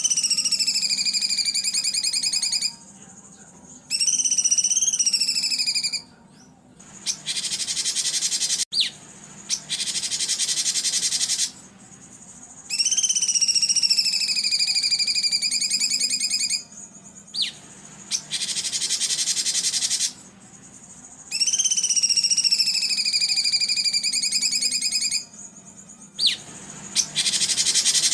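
Songbird training recording of harsh calls: drawn-out rasping notes that dip in pitch and then level off, alternating with dense buzzy bursts, in a cycle that repeats about every nine seconds. A faint steady low hum lies underneath.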